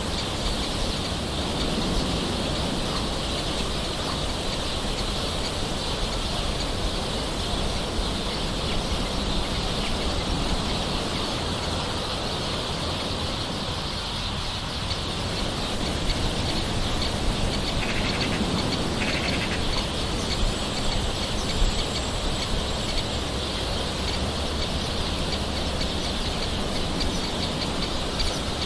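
Steady gentle rain, with birds calling in the background; two short calls stand out about two-thirds of the way through.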